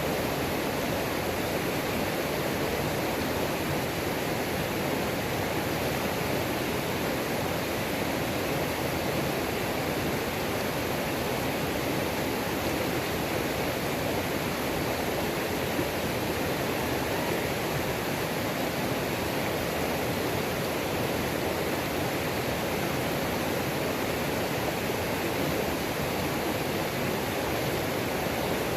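Mountain creek waterfall rushing: a steady, unbroken roar of falling and tumbling water.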